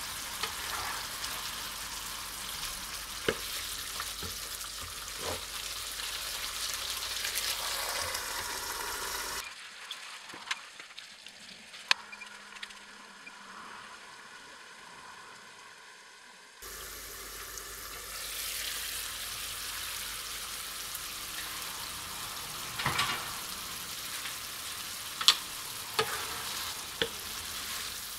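Chicken curry sizzling in a nonstick frying pan, a steady spitting hiss with scattered sharp clicks and knocks of a wooden spatula stirring it. For several seconds in the middle the sizzle drops to a much quieter, duller simmer under a glass lid, then the full sizzle returns.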